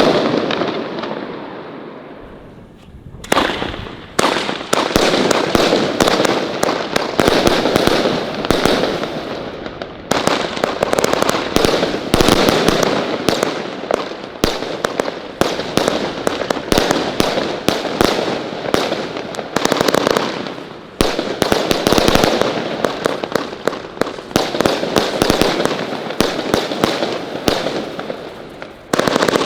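Compound firework batteries firing: dense, rapid volleys of bangs and crackling. They come in waves that ease off briefly a few times and then pick up again.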